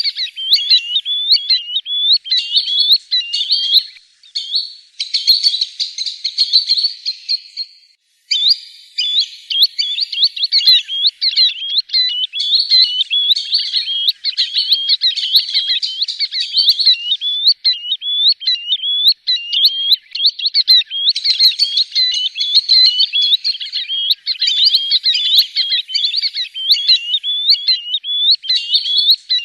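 Green sandpiper calling: a fast, near-continuous string of short, sharp whistled notes, with brief breaks about four and eight seconds in.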